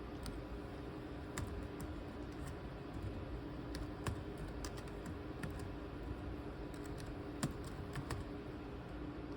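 Laptop keyboard keys pressed now and then, a dozen or so irregular clicks, over a steady low hum.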